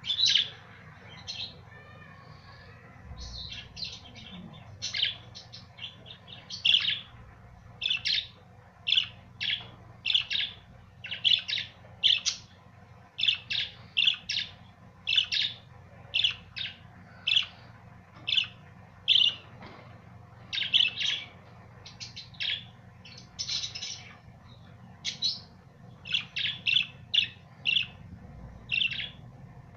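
Budgerigars chirping: short, sharp, high chirps coming in irregular quick runs, one to several a second.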